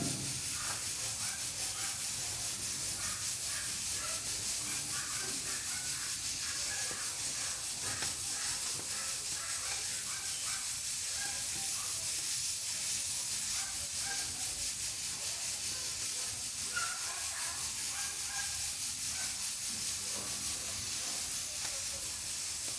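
Pressure cooker on a wood-burning stove hissing steadily as steam escapes through its valve, an even high hiss with faint small ticks underneath.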